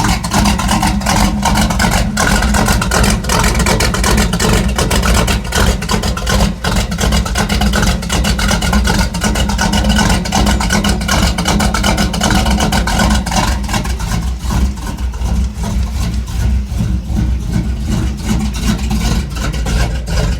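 Carbureted Mopar 360 V8 with a big cam idling low, around 600 rpm, just after a cold start, heard from inside the truck's cab. The engine is not yet warm enough to hold its usual 850 rpm idle.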